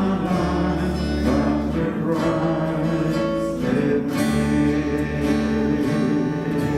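Worship band music: acoustic guitar strumming over a steady bass, closing out a congregational worship song.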